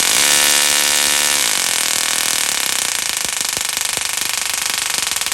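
Small musical Tesla coil's spark discharge, loud and continuous. It starts as a steady pitched buzz, wavers in pitch about a second and a half in, and turns into a rapid crackle of separate snaps toward the end.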